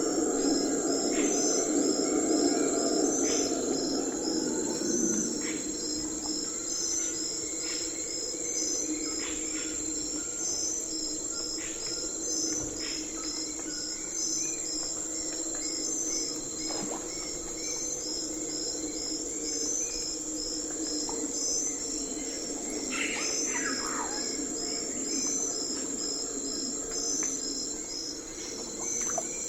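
Night forest ambience: a steady chorus of crickets chirping in an even, pulsing rhythm, over a lower droning chorus that is stronger in the first few seconds. Scattered short calls cut through, with one longer falling call about three-quarters of the way through.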